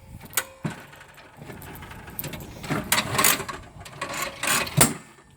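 Retractable air hose reel being handled: mechanical clicking and rattling, with a few louder scraping bursts in the second half.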